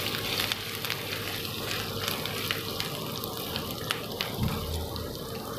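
Urad dal, chana dal and chopped ginger frying in hot oil in a nonstick wok: a steady sizzle with scattered light clicks and scrapes from a wooden spatula stirring them.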